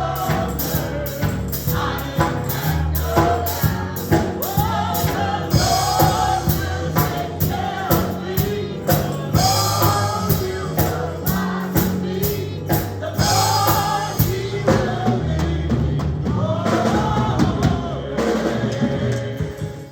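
Gospel music: voices singing over a band with drums and bass, keeping a steady beat. It cuts off abruptly at the end.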